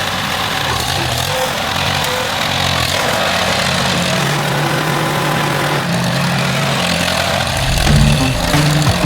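Tractor engine running steadily. Background music comes in near the end.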